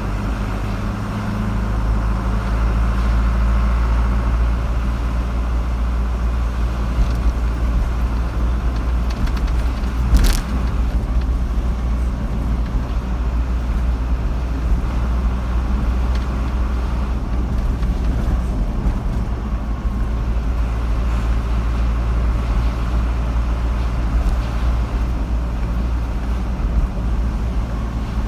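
Car driving along a road: steady engine and tyre rumble, heavy in the low end, with one sharp click about ten seconds in.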